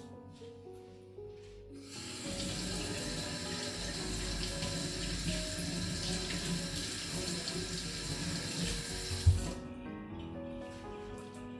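Water running from a tap into a sink for about seven seconds, then shut off, with a sharp knock just before it stops.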